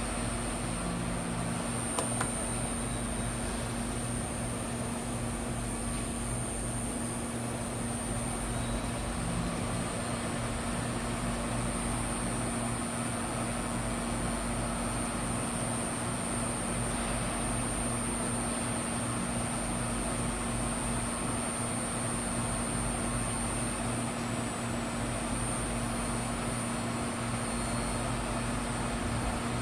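Supertec G60A-80 CNC cylindrical grinder running, its 20-inch wheel spinning at speed on a 10-horsepower wheel motor. It gives a steady machine hum with a thin high whine over it, and a single click about two seconds in.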